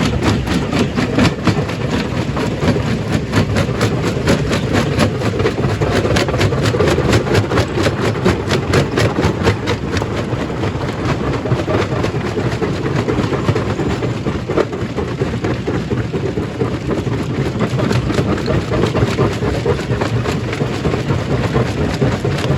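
Stone crushing machine running under load, breaking rock into gravel: a steady heavy rumble with a rapid, unbroken clatter of stone.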